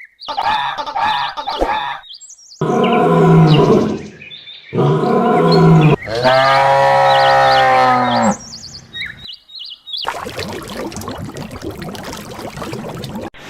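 Several long, loud animal calls, each lasting one to two seconds, with short high chirps between them, followed near the end by a few seconds of outdoor noise with faint bird calls.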